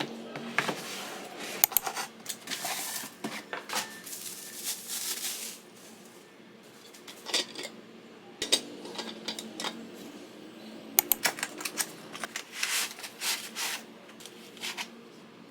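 Handling noises: irregular sharp clicks and taps with short rustling, scraping sounds in between.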